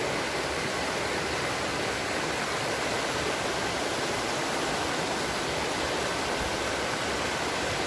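Small mountain river below a waterfall, its water rushing in a steady, even wash of sound.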